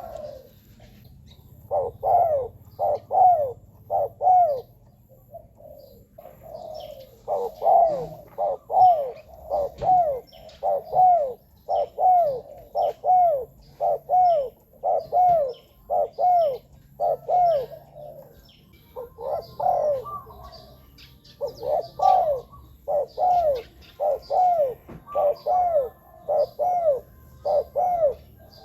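Spotted dove cooing: runs of short coo notes that rise and fall in pitch, about one and a half a second, in several phrases broken by brief pauses. Faint chirps of small birds sound behind.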